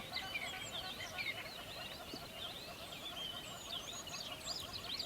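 A dense chorus of many songbirds chirping and whistling at once, short overlapping calls with quick rising and falling notes, over a fainter band of lower, rapidly repeated twittering.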